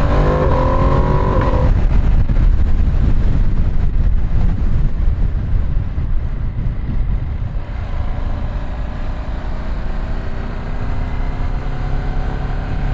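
Ducati Streetfighter V2 S L-twin engine accelerating, its pitch rising until the throttle shuts off under two seconds in. Then a low wind rush dominates over the quieter engine, which begins climbing in pitch again from about eight seconds in.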